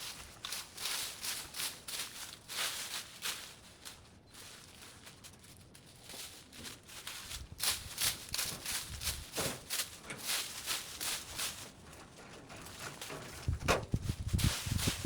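Irregular rustling and crackling of vines and brush being pulled and cleared, quieter through the middle and heavier and louder near the end.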